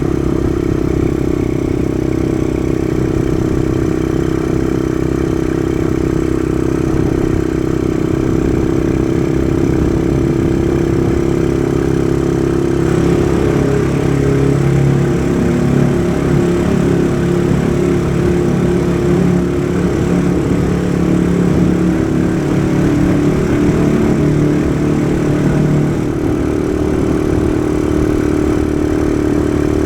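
Kawasaki KSR110 motorcycle's small single-cylinder four-stroke engine running steadily under way, its note changing for a stretch in the middle before settling back.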